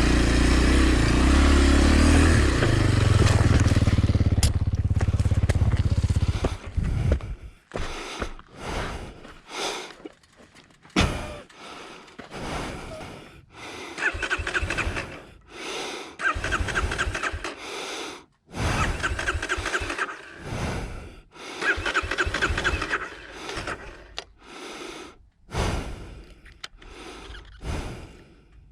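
A steady low rumble for about the first six seconds. Then a 2020 Kawasaki KLX230 is cranked over again and again on its electric starter in short bursts, the engine not catching: the bike won't start after a drop in sand.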